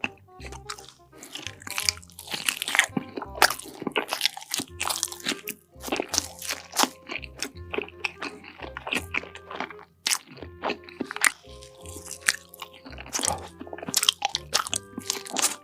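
Close-miked eating of crunchy food: repeated sharp crunching bites and chewing, over background music with a pulsing bass line.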